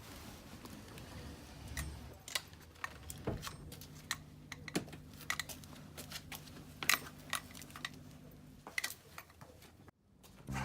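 Irregular light clicks and clinks, a few a second, from a walking dog's collar and tags, over a faint steady hum; the sound cuts off suddenly near the end.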